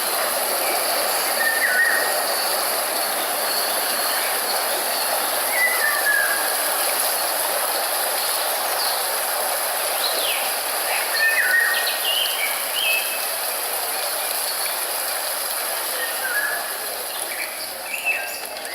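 Several small birds chirping and whistling in short, scattered calls, some gliding in pitch, over a steady rushing background noise.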